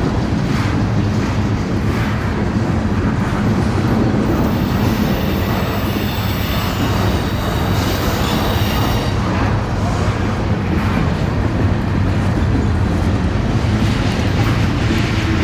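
A train passing close by with a loud, steady rumble. From about four to nine seconds in, a high-pitched whine or squeal rides over it.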